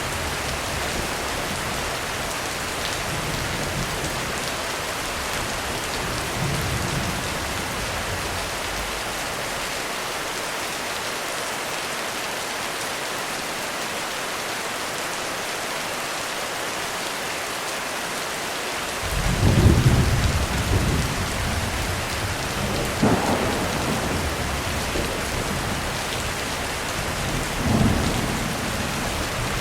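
Heavy rain falling steadily on a roof, with a faint distant rumble of thunder early on and a loud roll of thunder breaking in about two-thirds of the way through, swelling several more times before the end.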